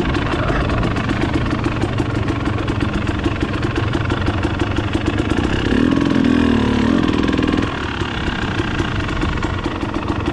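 Trail motorcycle engine running at low revs, with an even firing beat. A little past the middle the revs rise and fall a few times for about two seconds, then ease off.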